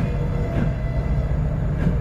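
Passenger train coaches rolling past at low speed: a steady low rumble of wheels on rail with a faint sustained ring, and two short clicks as wheels cross track joints.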